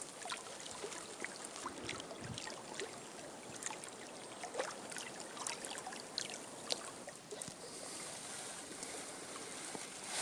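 Water trickling and lapping, with many small splashes and drips.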